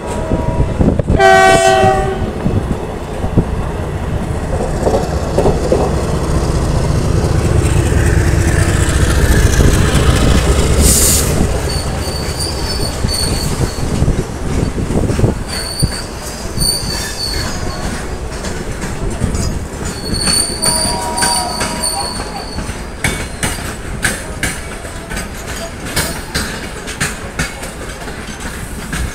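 Local passenger train running over the rails, wheels clattering over joints and points, with a short train horn blast about a second and a half in. The rumble is loudest in the first half; later, high-pitched wheel squeals come and go several times.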